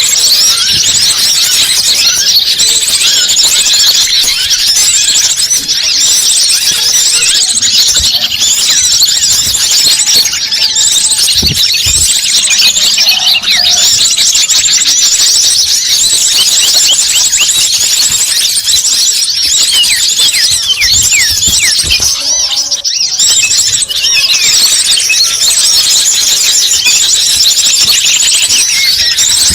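Small songbirds chirping and trilling in fast, high, overlapping notes without a break.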